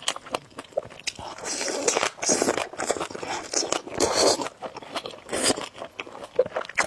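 Close-miked eating of noodles: several noisy slurps of about half a second to a second each, with wet chewing and small mouth clicks between them.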